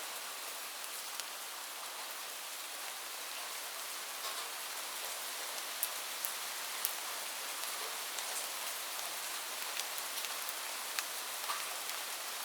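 Steady rain falling on a surface, an even hiss with scattered sharp drop taps.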